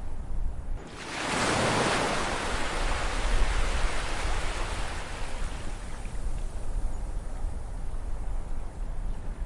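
Ocean waves: one wave breaks and washes in about a second in, a rushing hiss that swells quickly and then slowly fades as it draws back, over a steady low surf rumble.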